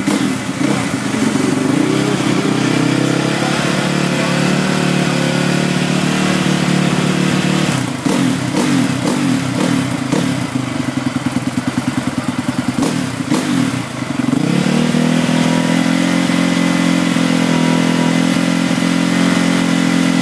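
Honda CRF450R's single-cylinder four-stroke engine revving on the stand: held steady at high revs, then dropping and pulsing unevenly for several seconds, then rising again and held steady.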